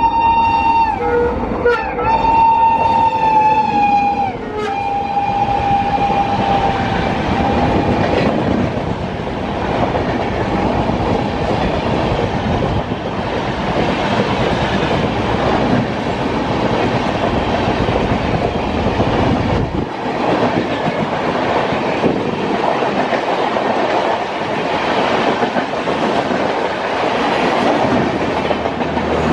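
An Indian Railways electric locomotive sounds its multi-tone horn as it approaches. The horn breaks briefly about a second and a half in, then is held until about four to five seconds in and drops in pitch as the engine passes. The train then rushes past at high speed, its coaches clattering loudly over the rails.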